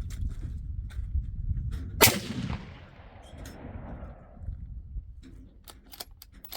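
A single gunshot about two seconds in, its report dying away over the next couple of seconds, over a low rumble. Several small clicks follow.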